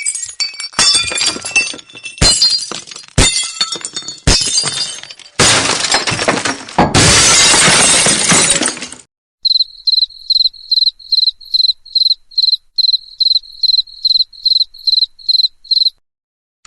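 Glass breaking: several separate smashes, then a longer crash of shattering glass lasting a few seconds. This is followed by a high, evenly pulsed chirp repeating about three times a second, like a cricket, which stops abruptly near the end.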